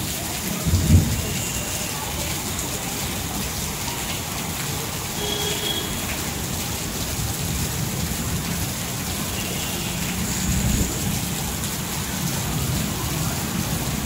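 Heavy rain falling steadily, with two brief low rumbles, one about a second in and another around ten seconds in.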